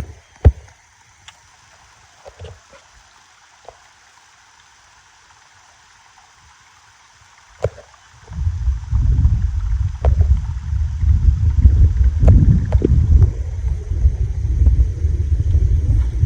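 Quiet at first with a few faint clicks and knocks, then about eight seconds in a loud, uneven low rumble of wind buffeting the phone's microphone.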